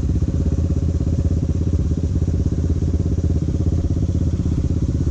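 Quad's single-cylinder four-stroke engine running steadily at low speed, with no revving.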